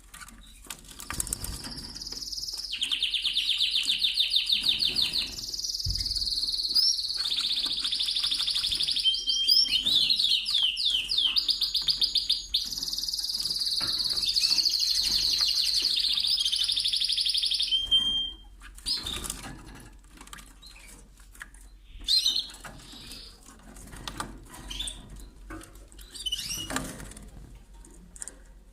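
Domestic canary singing a long song of fast rolling trills, high-pitched, which stops after about 18 seconds. After that come scattered short rustles and brief chirps.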